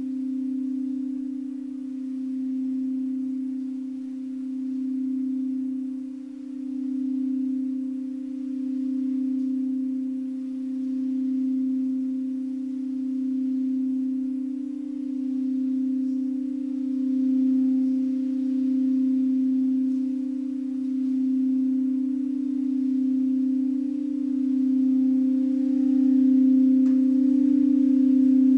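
Singing bowl sustaining one low, steady tone with a slow swell-and-fade about every two seconds, growing slightly louder toward the end.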